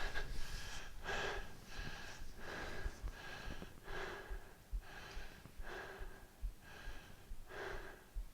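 A person breathing hard and fast under exertion, with sharp, regular breaths in and out about every three-quarters of a second, during a high-intensity work interval.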